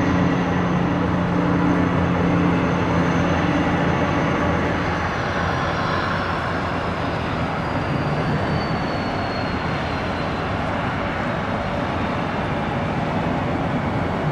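Jet aircraft engines passing on the runway: a steady rush of engine noise with a high whine that falls in pitch between about five and ten seconds in, as the aircraft goes by.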